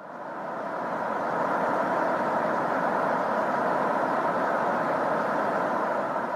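Space 'sound' from the Neptune system, sonified probe data: a steady rushing hiss centred in the middle range. It fades in at the start and holds even, with no rhythm or tones.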